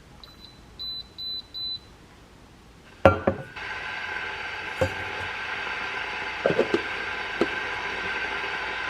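A kitchen appliance's electronic keypad beeping, one short beep then three, followed about three seconds in by a clunk as it starts and then a steady running hum with a few clicks.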